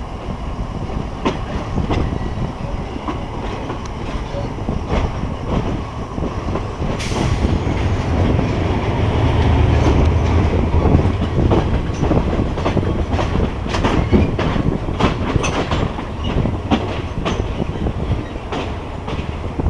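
Passenger train running along the track: a steady rumble with irregular clacks of the wheels over rail joints. The running noise swells louder about seven seconds in.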